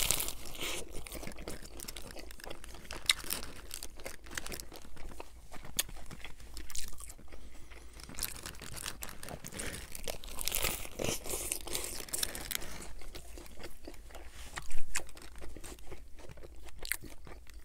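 Close-miked chewing of a lettuce-wrapped burger: crisp lettuce crunching and wet mouth sounds with each chew, with the paper wrapper crinkling now and then. The loudest crunch comes about fifteen seconds in.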